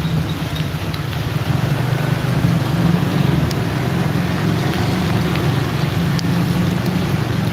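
Motorcycle engine running steadily while riding, with wind rushing over the microphone and a hiss of water on the road.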